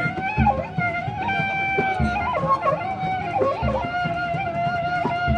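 Traditional music for a peresean bout: a sustained, wavering melody with pitch bends, over low drum beats that fall roughly every half-second to second.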